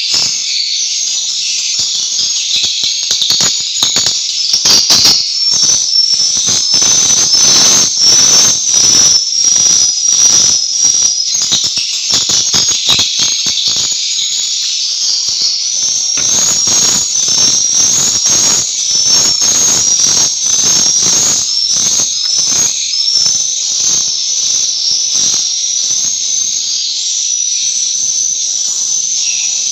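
Swiftlet calls: a dense, continuous chorus of high chirps and twitters with rapid clicking running through it, the sound of a swiftlet house.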